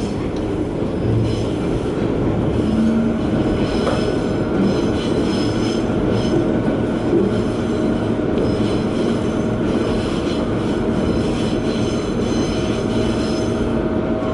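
Single-car diesel railcar running along the line, heard from inside the car: steady engine and rail rumble, with a faint thin squeal that comes and goes.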